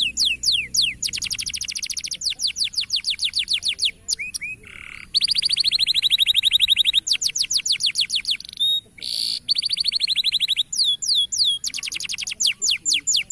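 Canary singing a long, loud song of rapid trills: runs of quick repeated whistled notes, many per second, changing to a new note type every second or two, with a few brief buzzy notes and short pauses between runs.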